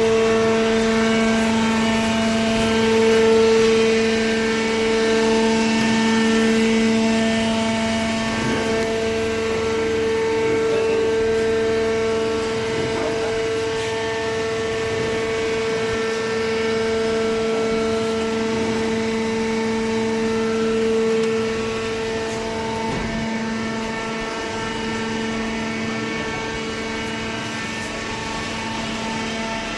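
Hydraulic cardboard baler's pump motor running with a steady hum; one of the higher tones in the hum drops away a little over two-thirds of the way through.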